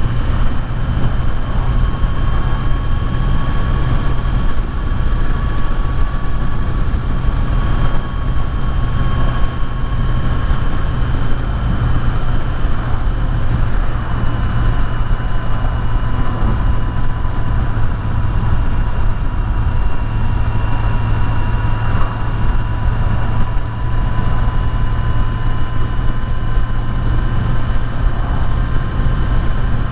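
Kawasaki Z900's inline-four engine running steadily at cruising speed, with a thin steady whine over it and heavy wind rush on the microphone.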